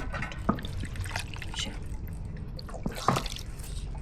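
Scattered wet drips and small clicks, a few a second, over a low steady rumble.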